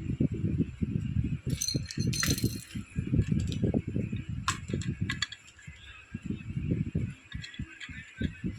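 Small plastic toy pieces being handled and set down, with irregular knocks and bumps, a brief clicking rattle about two seconds in and a few sharp clicks after.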